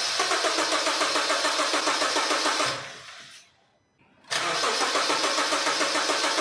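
Honda Crider's starter motor cranking the engine at a brisk, even pace without it firing: one spell of cranking stops a little under three seconds in, and a second starts about four seconds in. The car cranks fast but won't start, a fault the mechanic puts down to a failed fuel pump.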